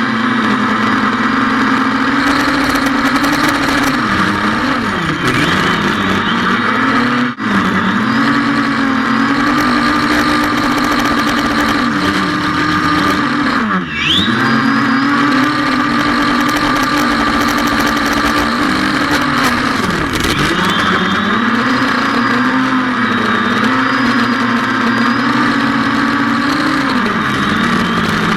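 Xiaomi FIMI A3 quadcopter drone's motors and propellers whining steadily, the pitch dipping and recovering every few seconds as the motors change speed, with two brief dropouts.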